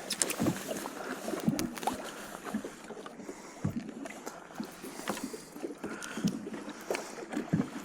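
Wind-driven waves lapping and slapping against a small fishing boat's hull, with scattered short knocks and clicks from handling in the boat.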